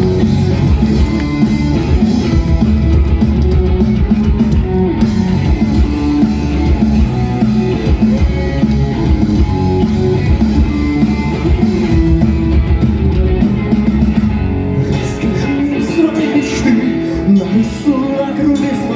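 Live rock band playing an instrumental passage between vocal lines, with guitar and drum kit. About fifteen seconds in the heavy low end drops away and sharper drum and cymbal hits stand out.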